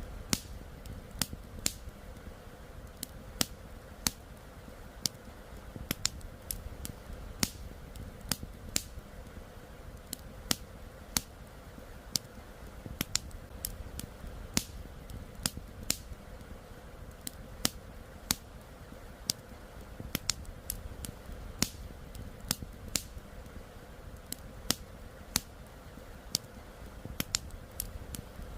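Wood campfire crackling, with sharp, irregular pops about once or twice a second over a steady low rush of flowing river water.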